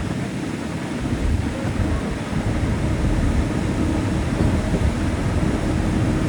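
Cog railway train running steadily, a continuous low rumble with a faint steady hum.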